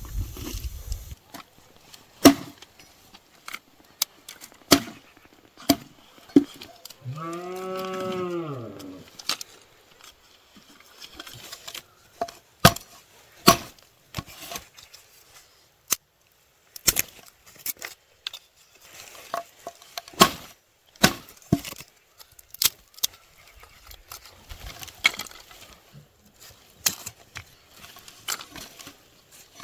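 Wood being chopped with irregular, sharp strikes, and a cow mooing once, a call of about a second and a half that rises then falls, near the middle.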